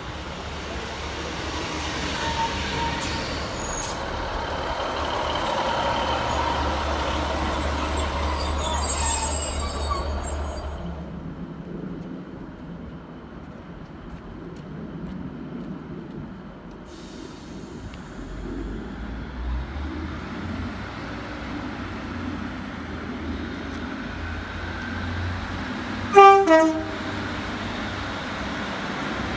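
A train passing through the station, loud with a deep rumble for about the first ten seconds, then easing to a quieter low rumble. About 26 seconds in, a short, very loud horn toot that falls in pitch.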